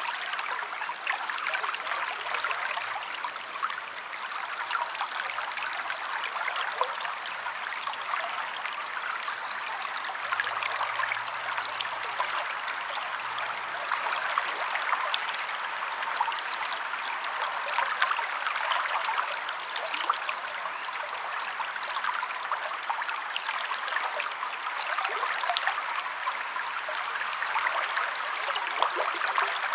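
Stream water flowing and trickling steadily, with many small splashes. A few faint, short high bird chirps come through now and then.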